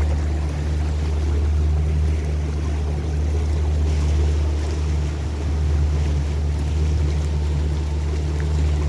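Tour boat's motor running at a steady low hum while the boat cruises, with the wash of water against the hull.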